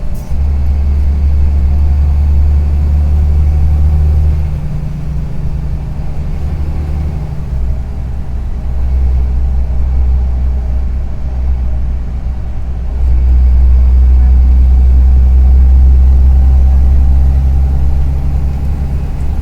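Karsan Avancity+ articulated city bus engine running with a deep, rattly rumble. Its note and loudness shift several times as the load changes, and it grows louder about two-thirds of the way through.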